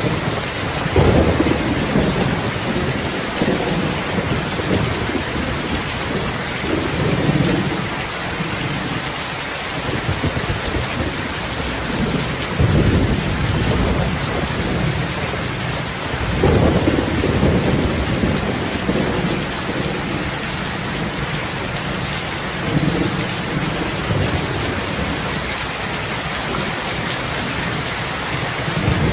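Steady heavy rain with repeated low rolls of thunder, the strongest about a second in and again around twelve and sixteen seconds in.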